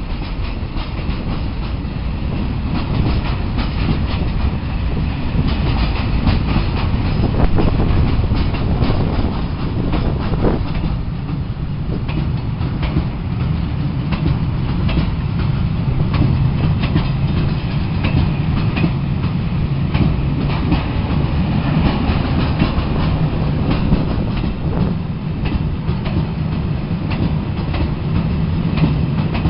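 A train running along the track: a steady low rumble with the clickety-clack of wheels over rail joints, and a steadier low hum in the second half.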